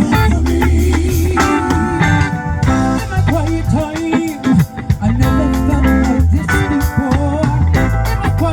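Live band music: a voice singing long, wavering held notes over guitar and bass.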